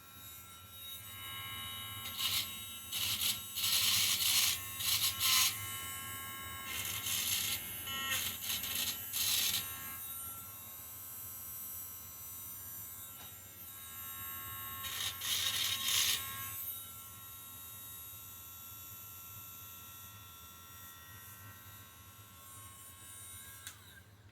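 Small handheld rotary tool running with a steady high whine, its bit grinding burrs off an engine block in several bursts of harsher grinding noise, most of them in the first ten seconds and one more about two-thirds of the way through. The motor winds down and stops near the end.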